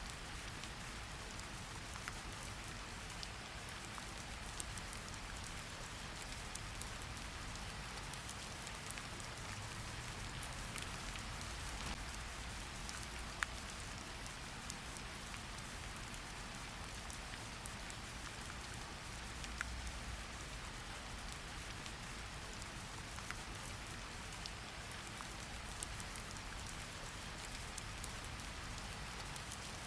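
Steady rain falling, an even hiss with scattered individual drops ticking onto a surface.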